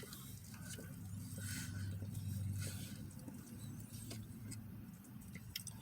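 Steady low hum inside a parked car, swelling slightly a couple of seconds in, with scattered small rustles and clicks of food being handled and eaten.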